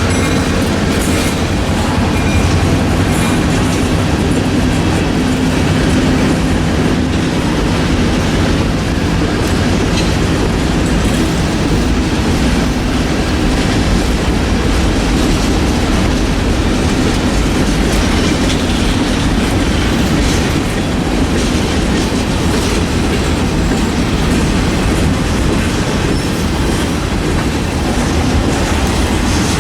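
Freight train rolling past close by: a steady loud rumble of railcar wheels clacking over the rail joints, with a low drone in the first several seconds.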